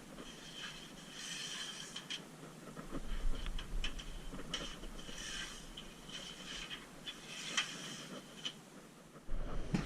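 Undercoating spray gun for Noxudol rust-proofing hissing in short bursts of about a second, with scattered light clicks and knocks between them and a thump near the end.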